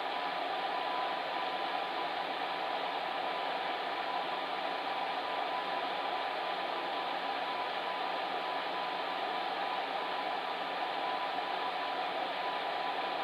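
Electric fan heater running steadily: an even rush of blown air with a faint steady hum.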